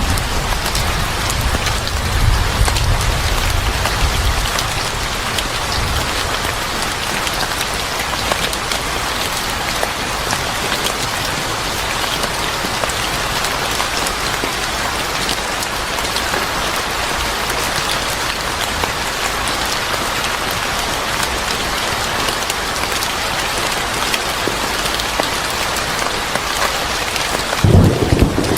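Steady, heavy rain falling and pattering on surfaces. A low rumble of thunder fades out a few seconds in, and another swells up near the end.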